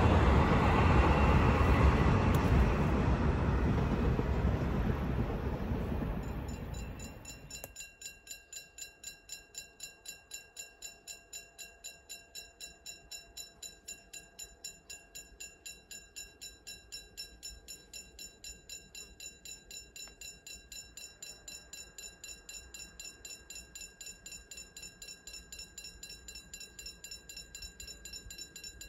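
A scrap freight train runs past, its rumble fading over about seven seconds. Then a level-crossing warning bell rings on steadily at about three strikes a second.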